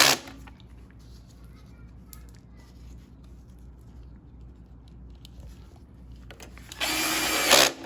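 A cordless drill/driver runs in a short burst of under a second near the end, driving a fastener on the mower engine; the tail of an earlier burst ends at the very start. Between them, faint clicks and handling of metal parts.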